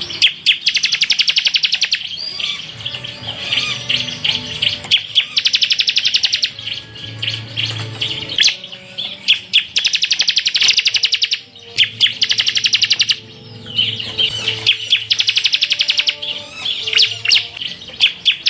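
Bar-winged prinia (ciblek) singing in full 'tembakan' style: four fast rattling trills, each about a second and a half long and about five seconds apart, with scattered short chirps and whistles between them.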